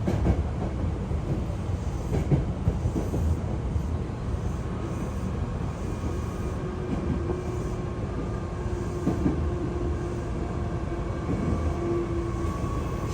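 Hankyu electric train running on the rails: a steady low rumble with scattered clicks from the wheels. From about halfway through, a steady whine joins in.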